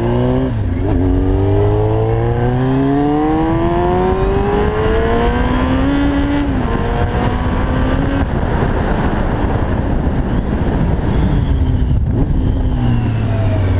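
Yamaha FZR 600 inline-four with a Yoshimura exhaust accelerating hard through the gears. The revs climb, drop at a shift about half a second in, then climb for about six seconds to another shift. Rushing wind noise then takes over, and near the end the revs fall as the bike slows.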